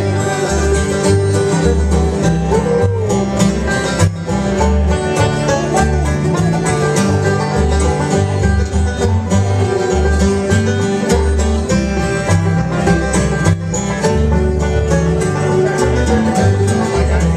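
Bluegrass band playing an instrumental break with no singing: plucked strings over a steady bass line that pulses on the beat.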